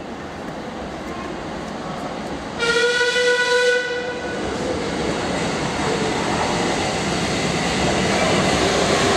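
A train in the tunnel sounds one blast of its horn, just over a second long, about two and a half seconds in. Then the rumble of the train approaching through the tunnel grows steadily louder.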